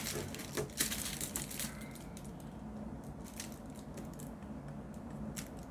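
Scattered light clicks and taps of diamond-painting drills being picked up with the pen and pressed onto the sticky canvas, denser in the first couple of seconds, over a faint low steady hum.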